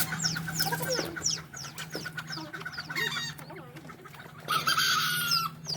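Chickens clucking and calling, with quick high chirps repeating in the first second or so and one longer, louder call about four and a half seconds in.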